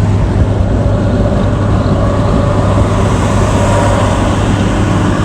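Steady road and engine noise of a moving vehicle heard from inside the cab, with a strong low hum.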